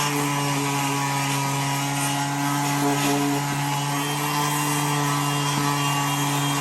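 Power tool motor running steadily at one constant pitch, as used for sanding paint from around roof rivets.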